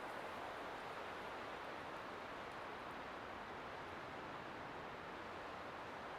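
Light wind blowing steadily through pine trees, an even rushing hiss with no gusts or breaks.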